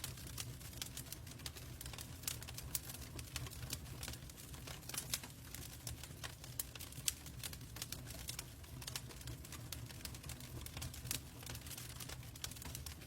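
Logs burning in a fireplace: irregular sharp crackles and pops over a low steady rumble of the flames.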